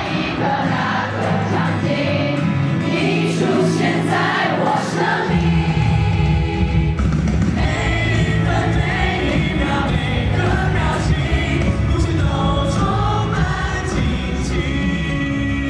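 Live concert music in a stadium, with many voices singing together like a crowd singing along. Heavy bass comes in about five seconds in.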